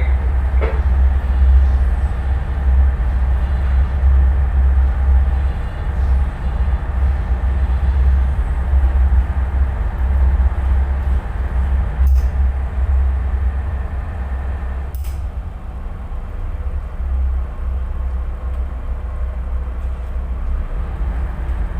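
A tugboat's diesel engine running steadily, heard as a heavy low rumble with a fainter haze above it. Two brief clicks come about twelve and fifteen seconds in.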